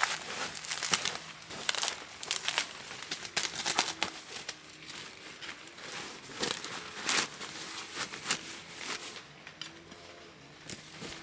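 Irregular crinkling and rustling from something being handled or crumpled, in many short uneven bursts that thin out near the end.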